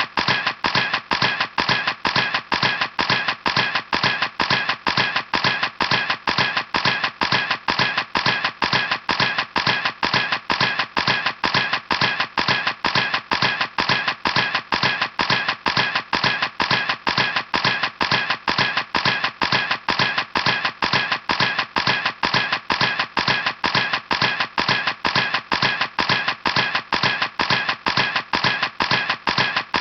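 Camera shutter clicking over and over in a rapid, perfectly even series, several clicks a second without a break.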